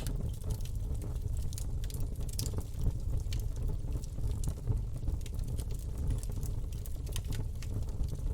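Campfire burning: irregular crackles and pops from the wood over a steady low rumble.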